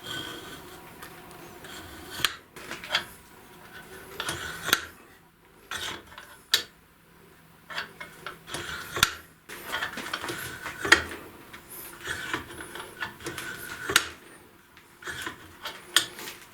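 Irregular mechanical clicks, clinks and short scraping rattles, coming in clusters with brief pauses.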